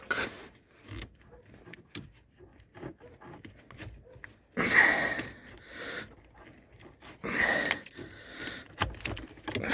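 Small clicks and handling noises of plastic wiring connectors being pulled off a car's steering-column switches and ignition lock, with two longer, louder noisy sounds about five and seven and a half seconds in.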